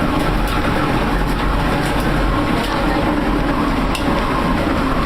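Tornado passing overhead, heard from inside a storm shelter: a steady, loud rumble.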